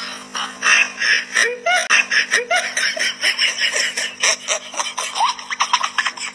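A person laughing in quick, repeated bursts over a steady low hum.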